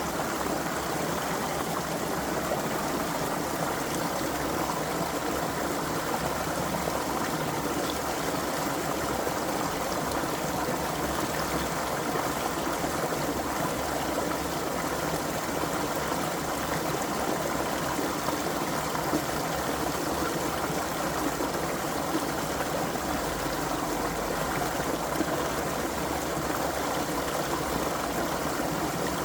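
A creek flowing steadily: an even, unbroken rush of running water.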